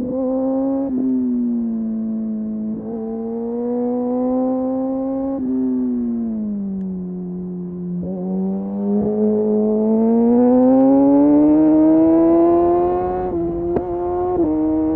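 Kawasaki Ninja motorcycle engine through an Arrow exhaust with the dB killer removed, running under way. The revs sag and dip around the middle, then climb steadily for several seconds, with sharp clicks and quick drops in pitch near the end as gears are shifted.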